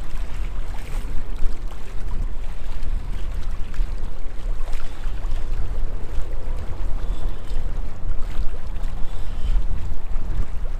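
Strong, gusty wind buffeting the microphone: a loud low rumble that rises and falls irregularly.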